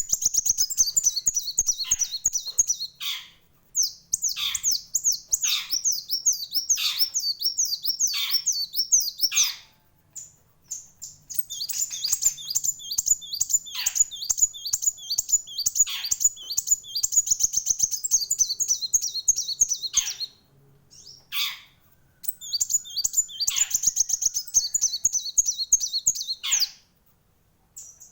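Kolibri wulung sunbird singing: long runs of rapid, high chirps, broken by a few short pauses, with a falling swept note about once a second.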